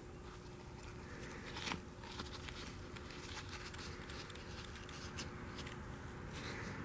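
Faint rustling and scattered small clicks of gloved hands handling a cut-open oil filter element, with a slightly louder rustle about two seconds in.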